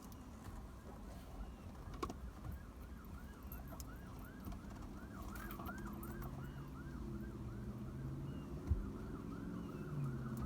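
Distant emergency-vehicle siren in yelp mode, its pitch sweeping up and down about three times a second, with a low vehicle hum underneath from about halfway in. A single sharp thump near the end.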